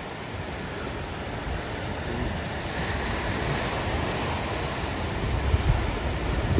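Ocean surf breaking on a reef, building in level from about two seconds in, with wind buffeting the microphone near the end.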